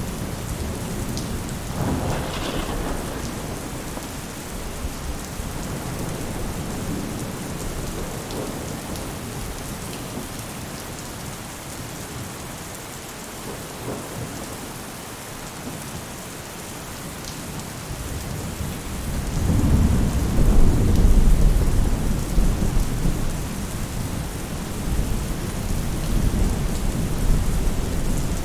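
Steady rain falling on a roof, with thunder: a short rumble about two seconds in, and a longer, louder one starting about two-thirds of the way through.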